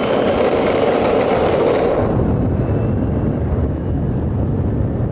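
Road rumble from a Boosted electric skateboard's wheels rolling on tarmac while riding, with wind noise on the microphone. The noise is louder and brighter for the first couple of seconds, then settles to a steady low rumble.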